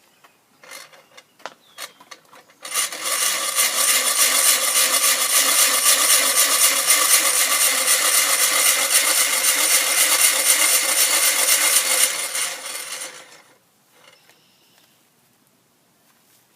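Bicycle-powered wheat grinder running empty with a loud, harsh grinding for about ten seconds, run dry to wear off the metal bits it was shedding into the flour. A few knocks come just before it starts, and it dies away near the end.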